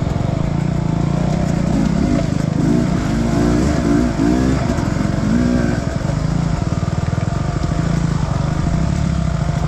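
Enduro dirt bike engine running at low revs, with a series of throttle blips rising and falling in pitch from about two to six seconds in.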